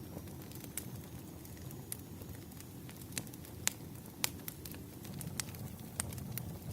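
Wood fire crackling: irregular sharp pops and snaps over the low, steady rumble of burning logs, with the loudest couple of pops a little past halfway.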